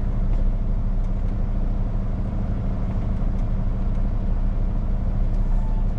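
Kenworth T880 semi truck's diesel engine running steadily while under way with a loaded lowboy trailer.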